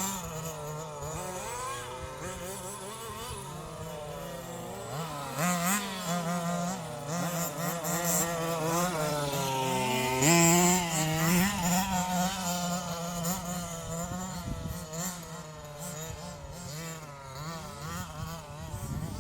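Small engines of 1/5-scale RC trucks revving up and down as they are driven, several overlapping at once, with the loudest surge about ten seconds in.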